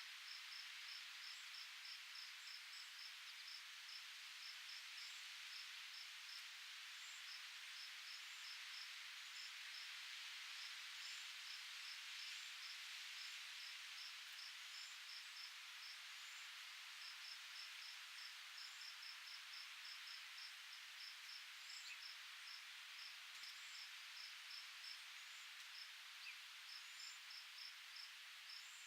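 Faint steady rustle of wind through foliage, with a cricket chirping about five times a second in runs broken by short pauses, and a few faint high bird chirps.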